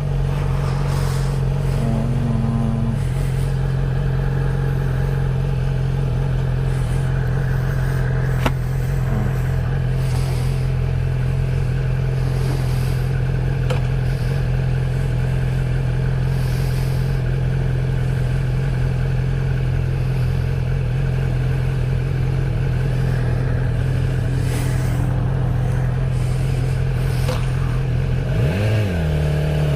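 Honda Grom's small single-cylinder engine running at a steady cruise on its stock exhaust. Near the end the engine note dips and then climbs again as the revs change.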